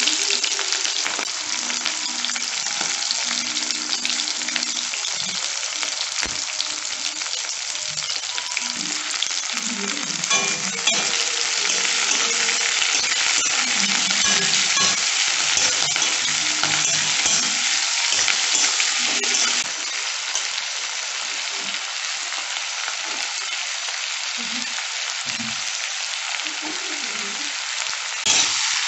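Onion pieces sizzling in hot oil in a black kadai, with a steel spatula scraping and clicking against the pan as they are stirred. The sizzle eases a little after about twenty seconds.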